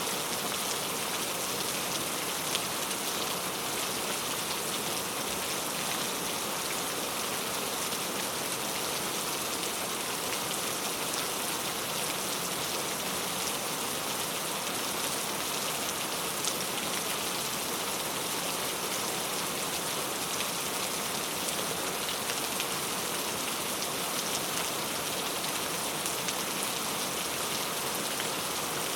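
Steady rain falling, a dense even hiss with a few individual drops ticking out of it.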